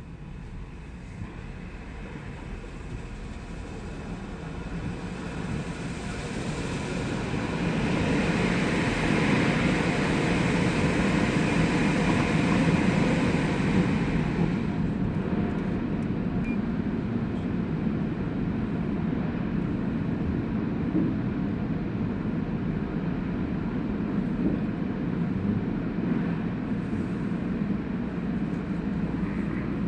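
Automatic car wash running around the car, a steady rushing noise that builds to its loudest about eight seconds in, eases a little after about fourteen seconds and then holds steady.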